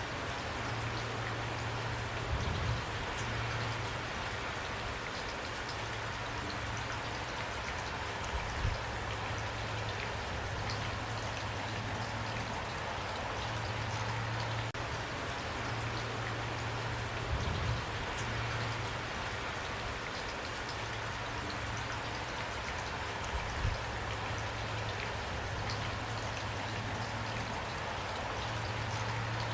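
Steady rain falling in a dense, even patter, over a constant low rumble. A few short low thuds stand out about four times.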